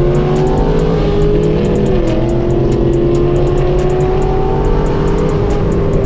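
Car engine pulling under steady acceleration while driving, its pitch climbing slowly, with a brief dip about two seconds in.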